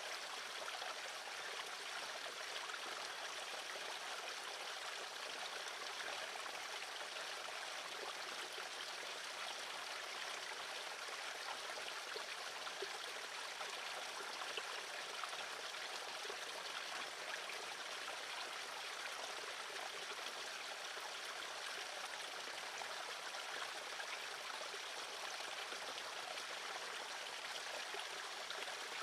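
Steady rushing noise like a stream of running water, even and unchanging throughout, with no birdsong standing out.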